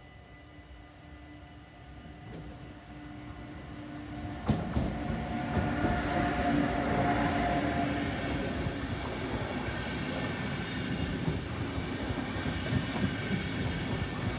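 TRAXX electric locomotive approaching with a steady hum that grows louder, passing about four and a half seconds in with a sharp knock. After it, a long train of passenger coaches runs by on the rails.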